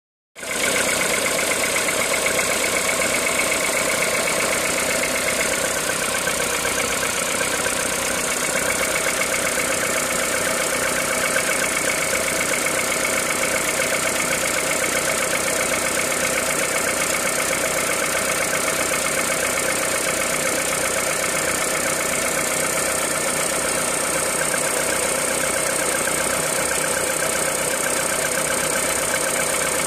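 Peugeot 207 VTi 120's 1.6-litre four-cylinder petrol engine idling steadily from a cold start, running on 5W30 oil.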